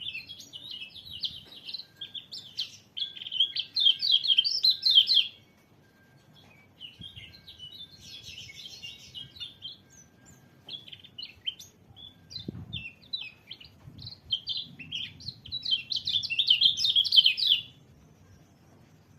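White-eye (pleci) song: rapid, high twittering chirps that swell into two loud phrases, with a short pause after the first and softer chirping between them, stopping shortly before the end.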